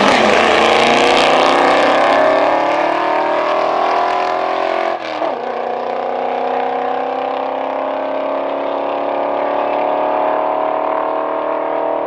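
Two drag-racing street cars, one an R33 Nissan Skyline's straight-six, accelerating hard down the strip with engine pitch climbing. About five seconds in the pitch drops at a gear change, then climbs again as the cars pull away.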